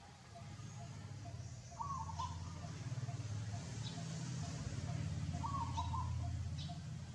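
A bird repeating a short call every three to four seconds over a low steady hum.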